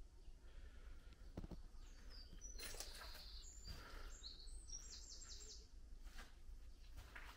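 Faint birdsong: a quick run of short, high chirps and trills about two seconds in that lasts a few seconds, over a low steady background rumble, with a few soft knocks.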